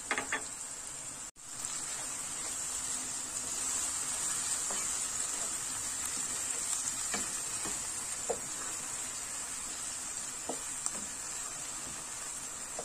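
Chopped onion, tomato, green pepper and parsley sizzling steadily in oil in a frying pan, stirred with a wooden spoon that gives occasional light scrapes and knocks.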